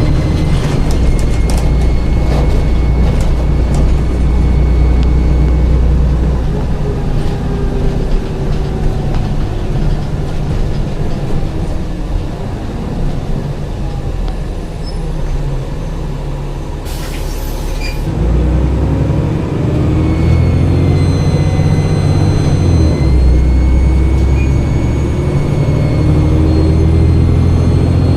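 Dennis Trident double-deck bus's diesel engine running under way, with a thin high turbo whistle over the engine drone. It eases off through the middle, a short hiss of air comes about two-thirds in, and then the engine pulls again with its pitch climbing.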